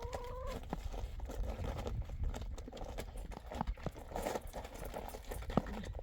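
Irregular knocks and clicks over a steady low rumble, with a short held tone in the first half second.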